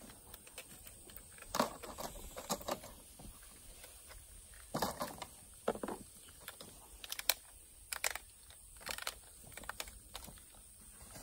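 Saw blade scraping the rough, freshly cut end of a PE water pipe to clean off burrs inside and out, in short irregular scrapes and clicks with pauses between.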